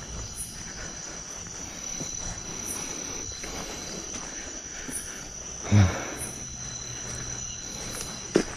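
Insects calling, a steady high-pitched chirring drone. A single loud thud about six seconds in and a short knock near the end.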